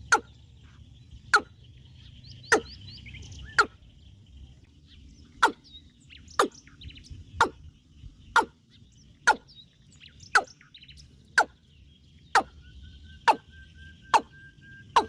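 Birds calling: a loud, sharp, steeply falling call repeated about once a second, with softer chirps in between over a steady high insect hum. A long, even whistled note joins near the end.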